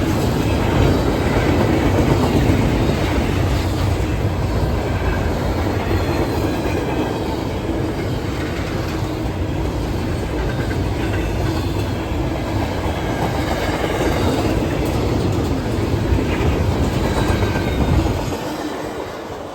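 Train rolling past close by, its steel wheels rumbling along the rails with faint wheel squeal. The rumble drops away in the last second or so.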